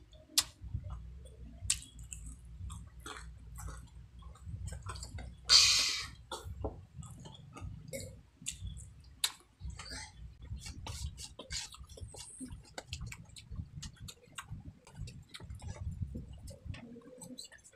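Close-up chewing and crunching of crispy fried chicken skin, with many small mouth clicks and crackles and one loud crunch about five and a half seconds in.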